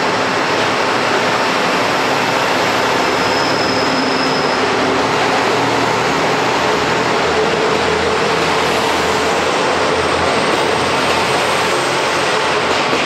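JR Kyushu electric limited express train running past along a station platform: a steady rumble of wheels on rail and traction motors, with a brief high squeal about three seconds in.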